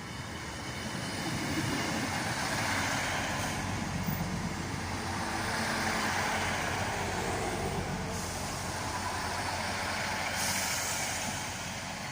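Diesel train running through the station, a steady engine and wheel rumble that swells and eases slowly.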